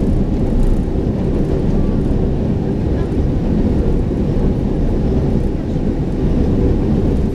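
Steady low rumble of an MRT Line 3 train in motion, heard from inside the carriage.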